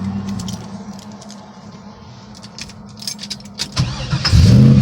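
Keys jangling at the ignition, then near the end the LS1 V8 cranks briefly and fires, its revs rising as it catches on the start-up.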